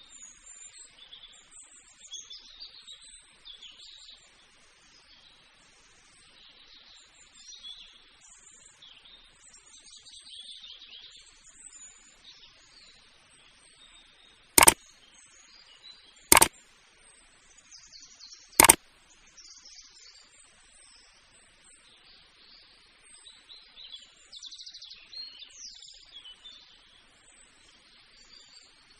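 Birds chirping and calling, with three sharp clicks about halfway through, roughly two seconds apart.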